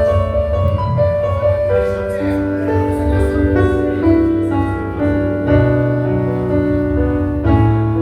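Live band music: a keyboard playing slow sustained chords over a steady bass, the introduction of a song.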